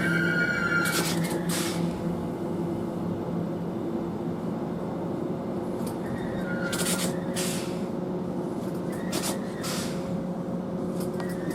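London Overground Class 710 electric train pulling into the platform and coming to a stop: a steady electric hum with short hissing bursts several times, some about a second in and more in the second half.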